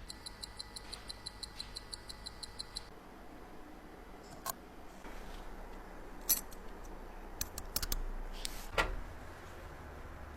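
A mechanical watch ticking fast and evenly, about six ticks a second, for nearly three seconds. Then come a few scattered small, sharp metallic clicks and taps, the loudest a cluster near the end.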